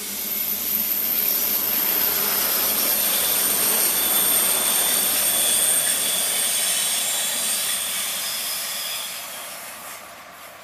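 Adelaide suburban diesel railcar set passing by: engine and wheels on the rails make a loud rushing hiss with high steady whining tones over it. It swells in the first couple of seconds, holds, then fades away near the end as the train moves off.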